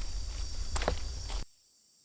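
Footsteps and rustling outdoors under a steady high-pitched insect drone, with a couple of sharper steps; it all cuts off suddenly about one and a half seconds in, leaving near quiet.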